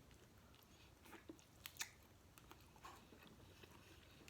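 Faint chewing: a person eating seafood close to the microphone, with a few soft, short mouth clicks and smacks scattered over near silence.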